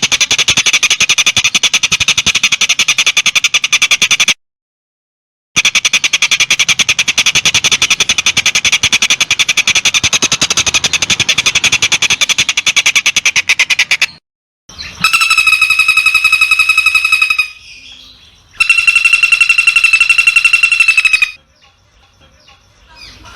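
Edited songbird calls for shrike training: a very fast, rattling run of repeated call notes that breaks off into dead silence and resumes, then two steady, held notes rich in overtones, each lasting about two and a half seconds.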